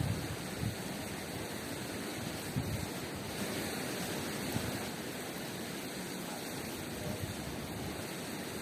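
River water rushing steadily, with a few soft low thumps.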